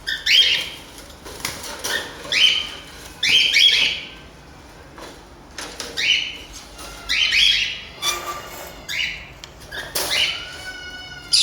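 A pet parrot squawking over and over, short harsh calls about once a second, with a short lull partway through and a higher, whistle-like call near the end.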